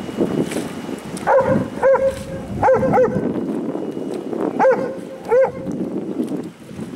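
Dog barking, six short barks in quick pairs, over steady background noise.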